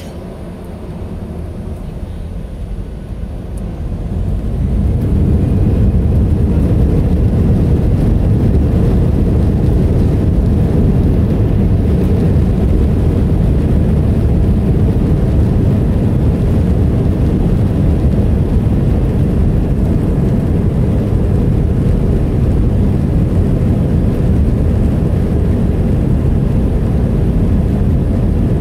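Airbus A321 jet engines spooling up to takeoff thrust, heard from inside the cabin. A low rumble swells over roughly the first five seconds, then holds steady and loud through the takeoff roll.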